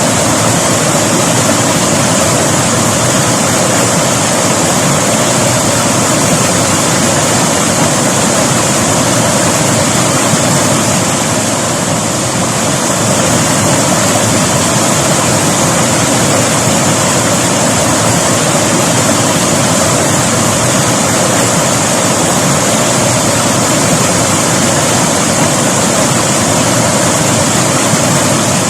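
River water rushing and splashing steadily, a loud even roar of flowing water.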